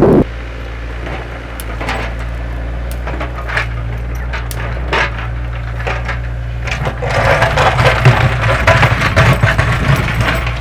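An earth-moving machine's engine running steadily, with a few scattered knocks, then from about seven seconds in a stretch of cracking and snapping wood as it tears through roots or branches.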